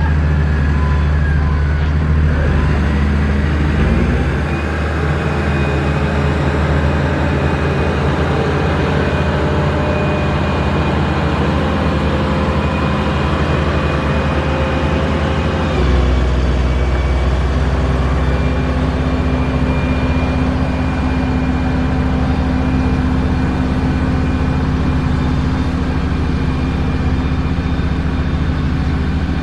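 Heavy construction machinery engine running steadily, with a change in its note about four seconds in and again about halfway through.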